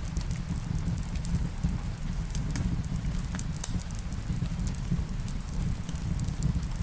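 Wood fire crackling, with irregular pops and snaps over a steady low rumble, and rain mixed in.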